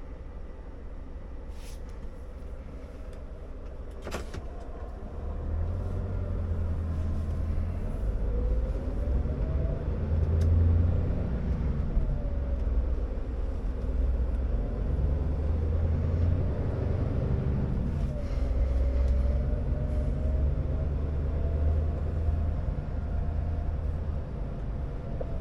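Scania R650 timber truck's V8 diesel engine running under load, a low drone that grows louder about five seconds in, with a whine rising in pitch a couple of times as it revs up. Two sharp clicks sound in the first few seconds.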